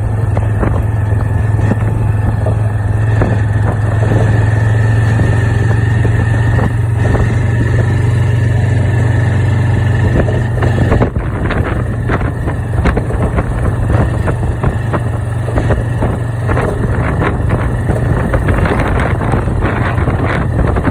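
An engine running steadily at a constant speed, with a steady low hum and a faint high whine; about halfway through it drops slightly in level and turns rougher and more clattery.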